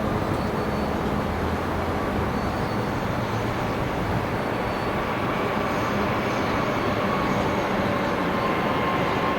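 Two-section 2TE25KM diesel-electric freight locomotive running with its train, a steady diesel engine sound with low rumble that grows slowly louder.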